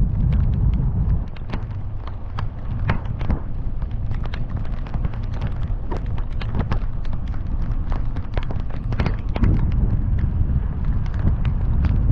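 Heavy rain drops striking hard and irregularly, many sharp taps a second, over the steady low rumble of a car driving on a wet road.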